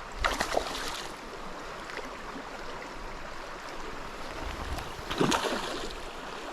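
Stream water running steadily, with two short louder disturbances, one just after the start and one about five seconds in.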